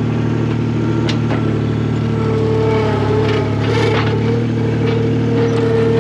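Skid steer's engine running steadily while its newly fitted hydraulic hose is checked for leaks under pressure, with a higher steady tone coming in about two seconds in.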